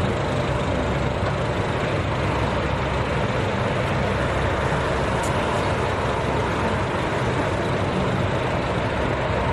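Steady, unchanging engine noise that holds at one level throughout.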